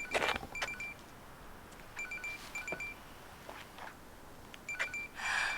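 A mobile phone ringing with an electronic ringtone of short high beeps that repeat in groups every couple of seconds. A brief rustling noise comes near the end.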